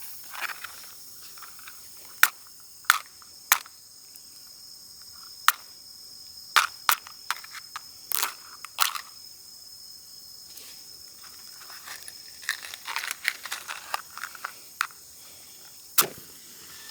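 Crickets chirping in a steady high drone, with scattered sharp clicks and knocks close by, a cluster of them near the end.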